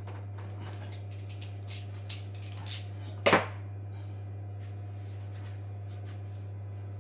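Light clicks and knocks of hard parts or tools being handled, with one sharp clank about three seconds in, over a steady low hum.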